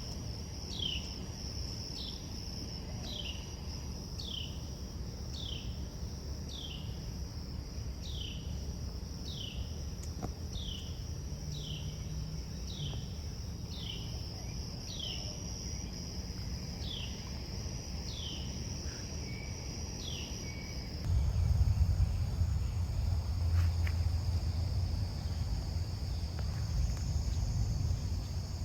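Insects buzzing steadily and high-pitched in the summer trees, with a bird repeating a short falling call about once every three-quarters of a second for the first twenty seconds. About 21 s in, a louder low rumble joins.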